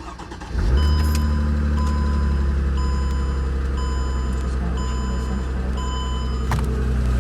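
A car engine starts about half a second in and settles into a steady idle, a cold start on a frosty morning. Over it, the car's warning chime beeps about once a second and stops near the end.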